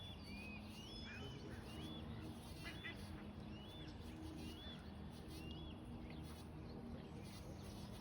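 A songbird repeating short whistled calls, each rising and then holding, several in quick succession, until they stop a little past halfway, over faint outdoor background noise.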